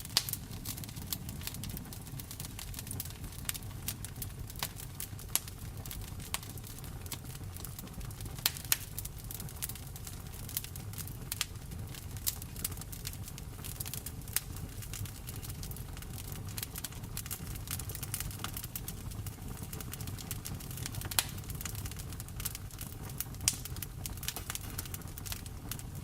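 Wood fire crackling in a fireplace, with irregular sharp pops and snaps, a few louder ones standing out, over a steady low rumble of flames and rain.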